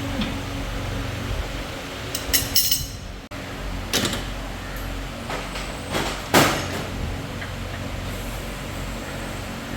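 A few scattered knocks and clanks of tools and metal parts being handled during car repair work, the loudest a little over halfway through, over a steady low hum.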